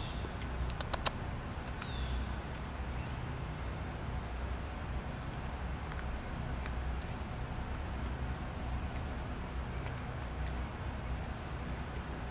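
Steady wind rumble with scattered short, high bird chirps, and three sharp clicks about a second in.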